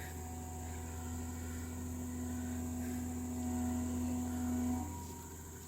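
Heavy earthmoving machine running: a steady low engine drone, with a held whine that grows louder and then stops about a second before the end.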